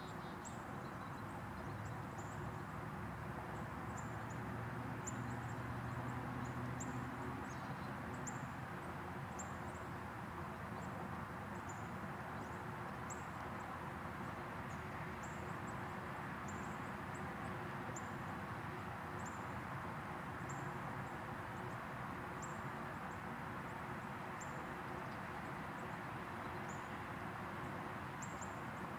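Steady outdoor background noise with a faint hum, and thin, high, downslurred bird calls repeating about once a second.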